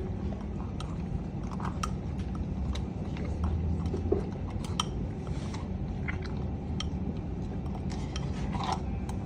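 A Sukiya beef bowl (gyudon) being wolfed down as fast as possible: chopsticks clicking against the bowl among rapid, noisy chewing and slurping. Sharp clicks come irregularly throughout, with a steady low hum underneath.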